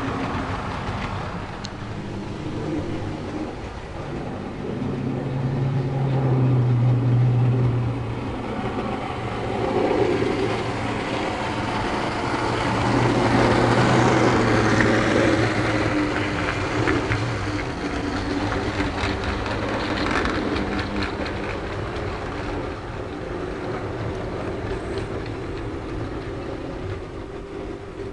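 OO gauge model diesel locomotive running along the track: a steady motor hum with wheel-on-rail noise, growing louder as it passes close about six seconds in and again around fourteen seconds.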